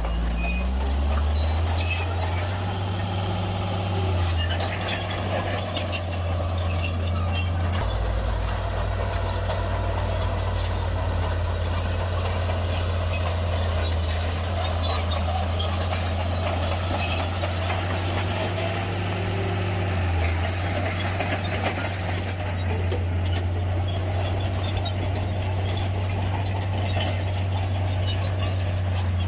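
Heavy diesel earthmoving machinery running steadily, its engine a deep constant drone, with scattered short clanks and squeaks over it.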